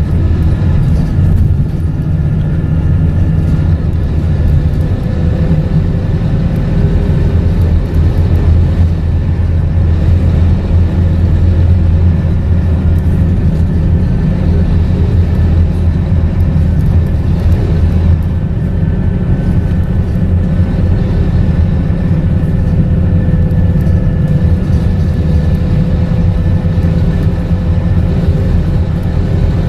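Scania K230UB bus's five-cylinder diesel engine running steadily under way, a heavy low rumble with a faint steady whine above it.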